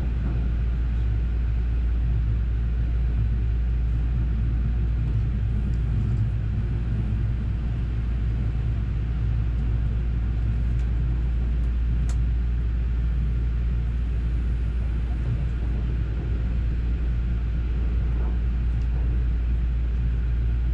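Steady low rumble of a JR West 281 series Haruka limited express running at speed, heard from inside the passenger car.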